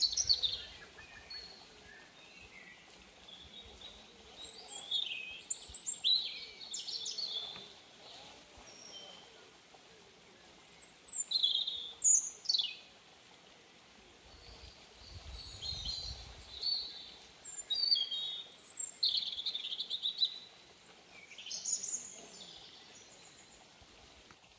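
Birds calling: clusters of short chirps and quick whistled sweeps, some falling sharply in pitch, coming every second or two.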